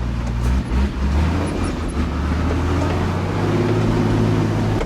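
Heavy truck's diesel engine working hard up a hill in a low gear. A steady low drone dips briefly a little under a second in, then strengthens and climbs in pitch toward the end.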